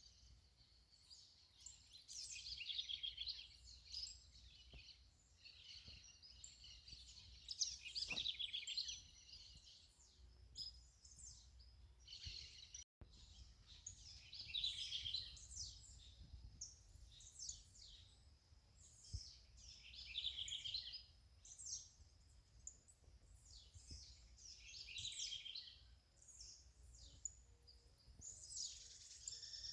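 Several songbirds singing and chirping in short phrases every second or two, over a faint low background rumble.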